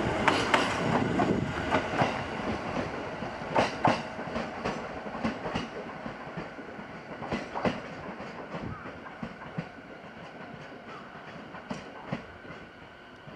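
Electric commuter train rolling slowly on the rails, its wheels clacking over rail joints in close pairs every few seconds, the running sound gradually getting quieter.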